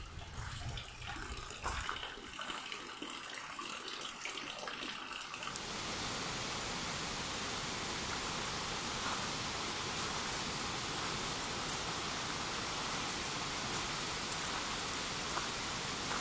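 Waterfall rushing: a steady, even rush of falling water that sets in abruptly about six seconds in, after a quieter, uneven stretch of water sound.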